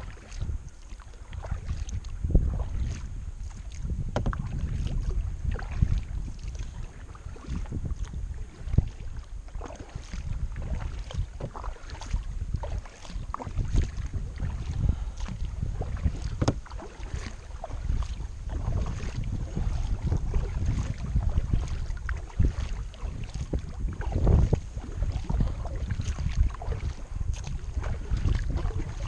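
Kayak being paddled against a river current: paddle blades dipping and splashing with irregular knocks against the hull, over a heavy low rumble of wind on the microphone.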